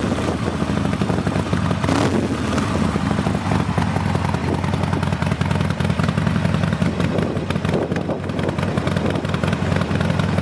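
Harley-Davidson XL1200 Sportster's 1200 cc V-twin running at a steady idle through Khrome Werks 3-inch HP-Plus slip-on mufflers. It gives a loud, pulsing exhaust note, with a brief rise about two seconds in.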